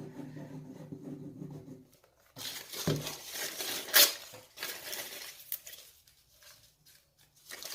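Crepe paper crinkling and rustling as it is torn, rolled into small balls and pressed onto paper, in irregular bursts with a couple of sharper taps about three and four seconds in.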